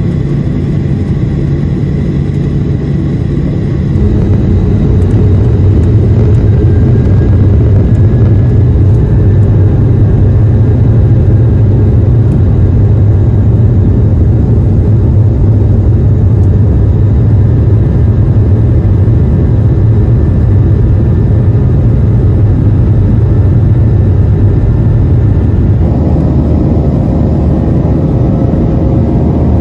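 Cabin noise of a Boeing 737-700's CFM56 jet engines: a loud, steady low rumble that steps up in level about four seconds in and holds, with a few faint steady tones above it.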